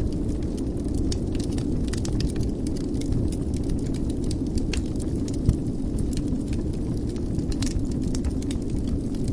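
Wood fire burning in a fireplace: a steady low rumble of flames with frequent small crackles and pops, and one louder pop about halfway through.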